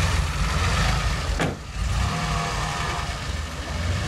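DeLorean DMC-12's rear-mounted PRV V6 engine running at low revs as the car pulls slowly away, with a sharp click about a second and a half in.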